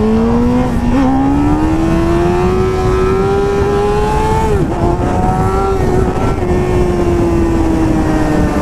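Sport motorcycle engine pulling up through the revs for several seconds, with a quick gear change about halfway, then holding and slowly easing off, under heavy wind rush on the helmet microphone.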